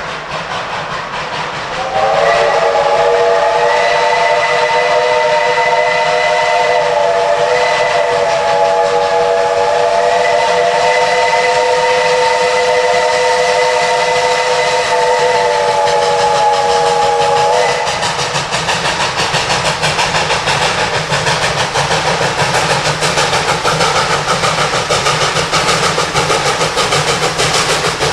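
Steam locomotive's chime whistle blowing one long chord of several notes for about sixteen seconds, over a steady hiss of steam. After the whistle stops, a fast, even pulsing from the running train carries on.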